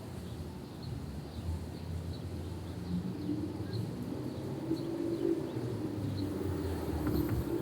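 Outdoor background noise with a low steady rumble and faint bird calls, short chirps recurring every second or so.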